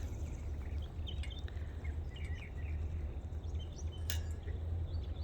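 Faint, scattered short chirps and peeps from birds over a steady low rumble, with one sharp click about four seconds in.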